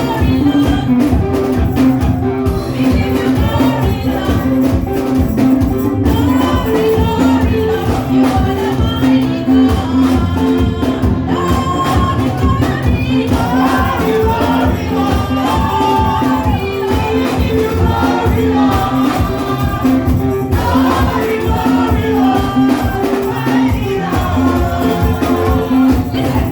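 Live gospel praise music: a band with drums, bass and tambourine playing a steady beat while voices sing.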